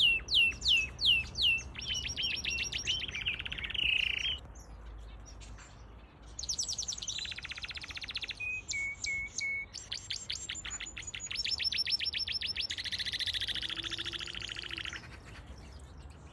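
Canary singing a long song of rolling trills, each made of a different note repeated rapidly, with a short lull about a third of the way through.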